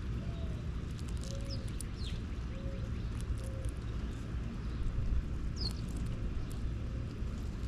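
Outdoor ambience of a steady low background rumble, with a few short, high, falling bird chirps and a faint row of short low calls through the first few seconds.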